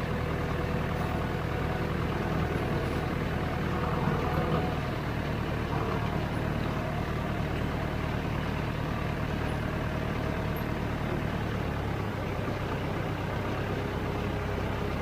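Farm tractor engine running steadily under way, a continuous low drone.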